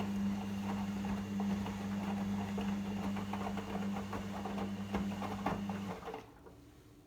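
Logik L712WM23 washing machine running with a steady low hum and light rattling and clicking, which cuts off about six seconds in.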